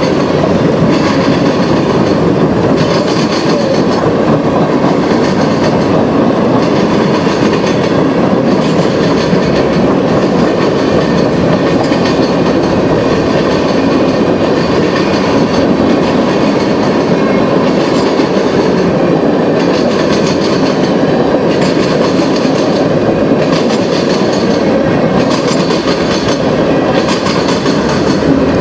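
A freight train's cars rolling steadily past: a continuous loud rumble of steel wheels on rail, with a regular clickety-clack as the wheelsets pass over rail joints.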